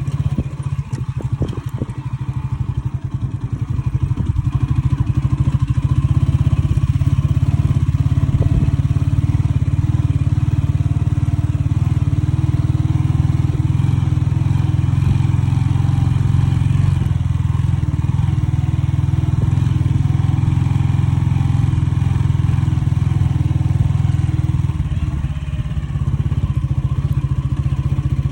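Motorcycle engine running. Separate firing pulses are audible at first, then it rises over the first few seconds to a steady, loud drone, with a brief easing near the end.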